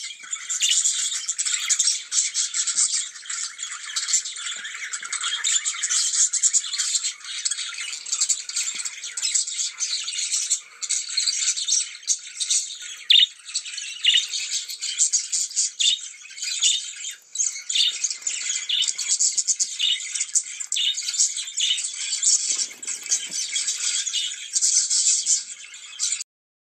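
Pet budgies warbling and chattering nonstop: a dense stream of rapid clicks, chirps and short squawks. It cuts off abruptly near the end.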